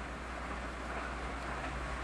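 Steady rushing rolling noise of a 683-series electric limited express train running past on the line, with a constant low hum underneath.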